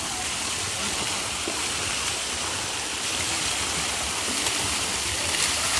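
Steady rush of running water from the hot spring, even and unbroken.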